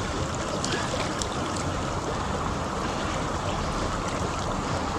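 Fast, shallow mountain river rushing over stones: a steady, even noise of running water.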